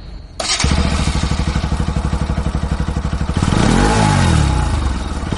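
Bajaj Pulsar NS160's single-cylinder engine idling with a fast, even pulse from about half a second in, then revved in the second half, its pitch rising and falling.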